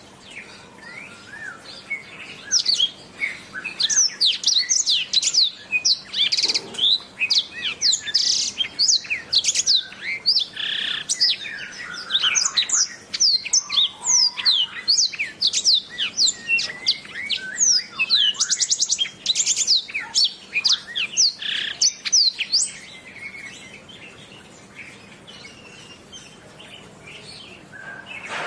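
Canary singing a long, fast, varied song of chirps, trills and quick rising and falling whistles, easing off to softer, sparser notes for the last few seconds.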